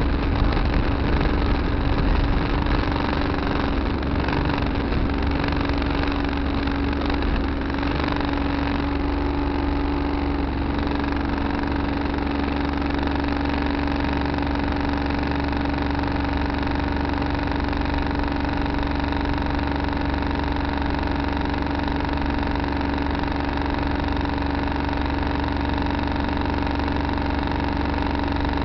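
Tractor engine running at a steady speed with a constant hum, a little uneven for the first ten seconds or so and then even.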